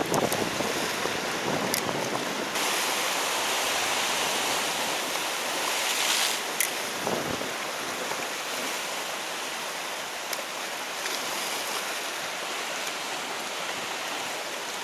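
Sea surf washing against a rocky shore, a steady rush of water that swells louder for a few seconds early on and then eases, with a few faint clicks.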